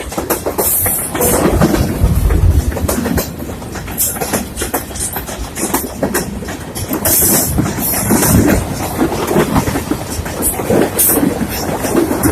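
A train's railroad cars rolling past, their wheels clattering over the rails with many sharp clicks over a steady rumble.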